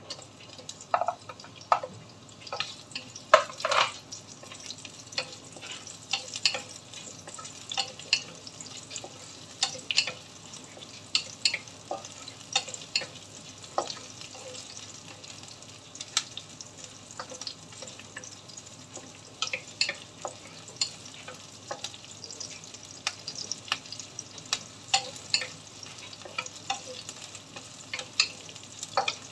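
Onions and ginger sizzling in hot oil in a nonstick wok, stirred with a wooden spatula that taps and scrapes against the pan many times, the loudest taps in the first few seconds.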